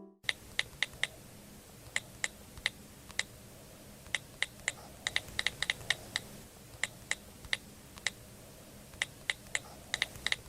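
A series of irregular sharp clicks, some in quick runs, over a faint steady hiss.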